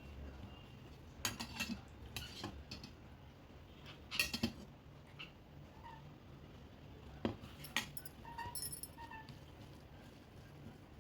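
Plate and utensil clinks from eating: several short sharp clinks and knocks, the loudest about four seconds in.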